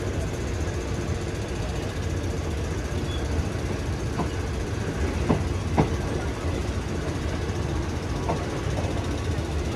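Steady low rumble of a train, with a few short sharp knocks about halfway through.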